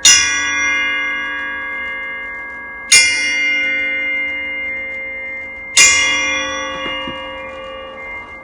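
An outdoor bell struck three times, about three seconds apart, each stroke ringing on with several pitches and fading slowly. The ringing is a signal to backyard squirrels that food has been put out.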